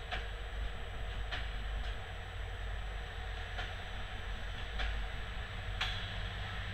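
Passenger train coaches rolling slowly past: a steady low rumble of the wheels, with a sharp click about once a second as they pass over the rail joints.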